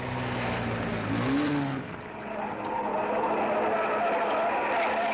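1950s rally car engine running hard on a dirt-road speed test, its pitch rising briefly about a second in. Just before two seconds it cuts off abruptly and a second car's engine takes over, higher pitched and wavering.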